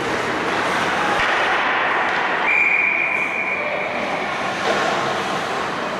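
Ice hockey game sound: a steady rush of skates on ice and rink noise. A high steady tone starts about two and a half seconds in and lasts under a second.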